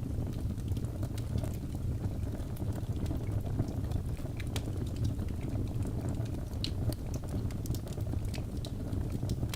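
Birch logs burning in a fireplace: a steady low rumble of flames with frequent small, sharp crackles and pops scattered throughout.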